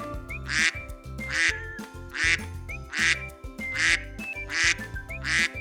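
Duck quacking repeatedly, a call a little under once a second, over background music.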